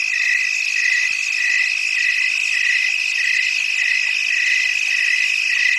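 Chorus of frogs and insects: a steady high trill under a shorter call that repeats evenly, a little under twice a second, with a higher chirring hiss over both.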